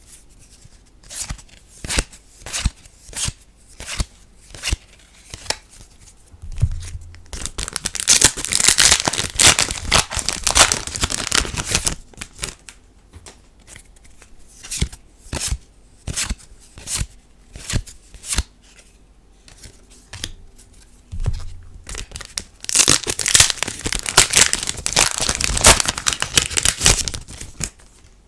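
Foil wrappers of Cardfight!! Vanguard booster packs being crinkled and torn open, twice, with the trading cards being flipped and set down one at a time in between, a short sharp tap every half second to a second.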